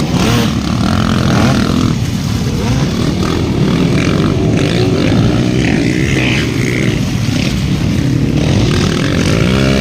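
Several motocross bike engines running hard, their pitch rising and falling as riders throttle on and off.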